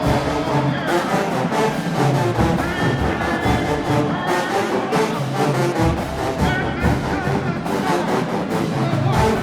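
Marching band brass section playing held, pitched notes over a steady drum beat and deep bass.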